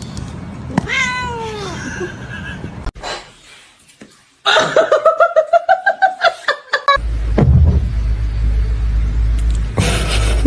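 A domestic cat meowing: one drawn-out meow falling in pitch about a second in, then a run of rapid, pulsing yowls at about four a second. A steady low rumble takes over in the second half.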